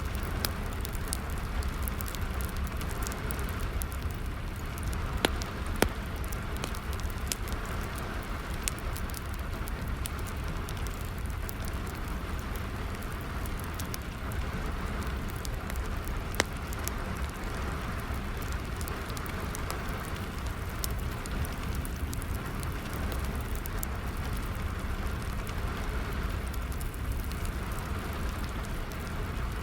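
Steady rain falling together with a wood fire crackling, its small ticks and snaps scattered throughout, with a few louder sharp pops, two about five to six seconds in and one about sixteen seconds in.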